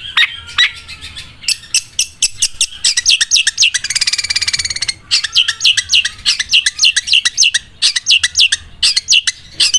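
Long-tailed shrike (cendet) singing a rapid string of sharp, high chirps, several a second, broken by a fast rattling trill about four seconds in: the 'sewing machine' song style.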